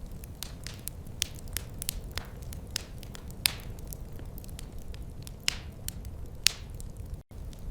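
Wood fire crackling in a fireplace: a steady low rumble with irregular sharp pops and snaps, a few much louder than the rest. The sound cuts out for an instant near the end.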